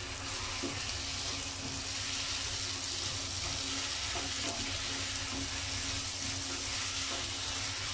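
Chopped tomatoes and onions sizzling in oil in a nonstick wok while being stirred with a wooden spatula: a steady frying hiss over a low, steady hum.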